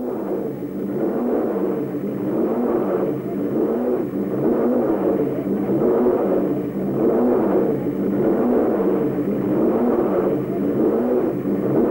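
Racing car engine running, its revs rising and falling gently again and again.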